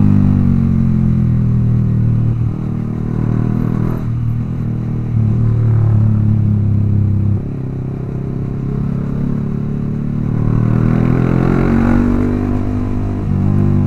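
Yamaha R15 V3's single-cylinder engine through a Proliner aftermarket exhaust while riding. The engine note climbs and falls with the throttle, dropping sharply about two and a half and seven and a half seconds in.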